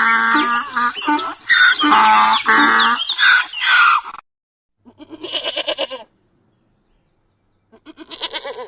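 Bleating from a sheep or goat: two separate wavering, quavering calls about a second long in the second half. They follow several seconds of other loud pitched animal calls.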